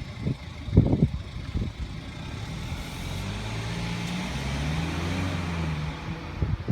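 A car engine running close by, its note rising slightly as it pulls away and easing off near the end.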